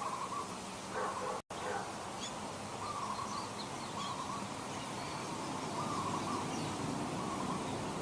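Birds calling: short calls repeating every second or so, with fainter high chirps among them, over a steady hiss of background noise. The sound drops out for an instant about a second and a half in.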